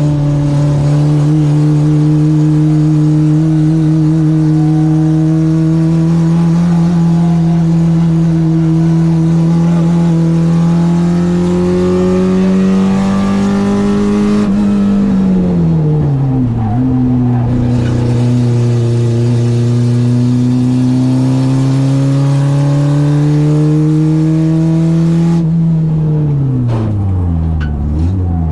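Citroen AX's 8-valve four-cylinder engine on twin Weber 40 carburettors running hard at high revs, its pitch climbing slowly. About halfway the revs drop sharply as the throttle comes off, then hold steady again before falling away steeply near the end.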